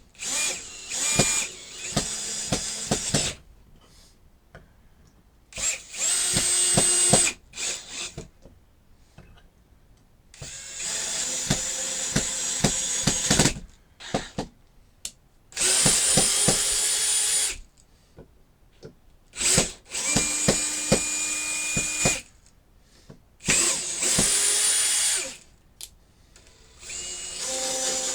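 Power drill running in about seven short bursts of one to three seconds each, with small clicks and handling knocks in the pauses between.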